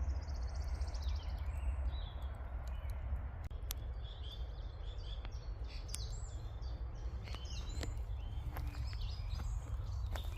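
Songbirds singing and chirping over a steady low rumble, with scattered sharp crackles from a burning campfire.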